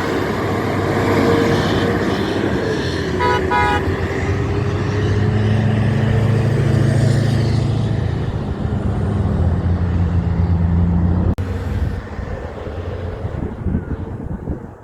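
Big trucks passing on a road: a short run of quick vehicle-horn toots about three seconds in, then a loud, low, steady truck engine drone from about five seconds that cuts off abruptly near eleven seconds, leaving quieter road noise.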